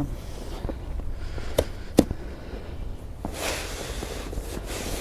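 Snow shovel knocking twice, about half a second apart, then scraping through snow for over a second.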